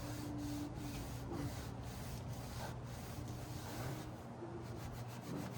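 A rag wiping a motorcycle wheel with degreaser, in regular back-and-forth rubbing strokes about two a second.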